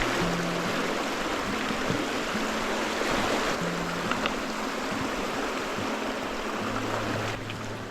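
Stream water rushing steadily over rocks, a constant rushing wash, with soft background music with low sustained notes under it.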